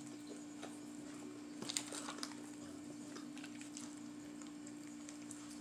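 Faint eating sounds, with a few small crunching clicks about one and a half to two and a half seconds in, over a steady low hum.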